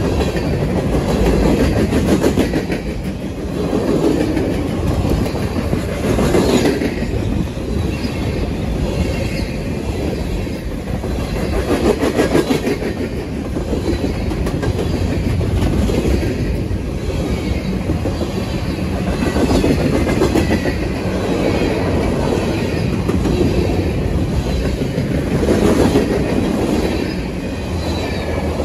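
Freight train of covered hopper cars passing close by at speed: a steady rumble of steel wheels on the rails, with repeated clicks as the wheels pass over, swelling and easing every few seconds as cars go by.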